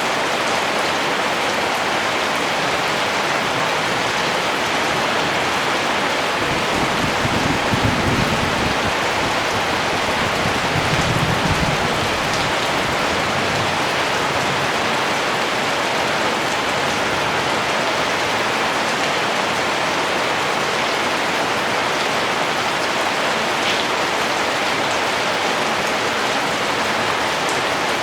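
Steady gentle rain falling, an even hiss of countless drops. Two brief low rumbles come about seven and eleven seconds in.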